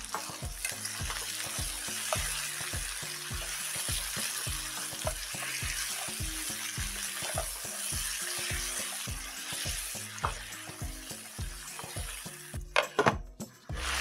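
Crabs frying in a spiced masala gravy in a nonstick pan, with a steady sizzle as they are stirred and turned with a spatula. A few sharp knocks come about a second before the end.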